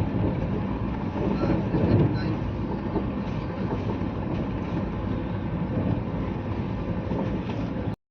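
Steady rumble of a moving vehicle heard from inside, which cuts off suddenly near the end.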